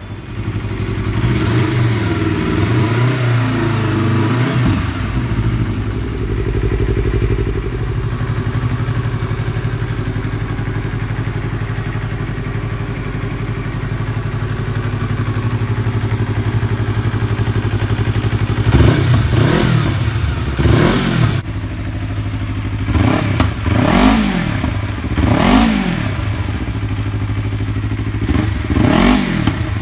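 Yamaha R25 parallel-twin engine through an aftermarket Akrapovic exhaust, idling with a few light revs early on, then blipped sharply about six times in the second half, each rev rising and falling quickly.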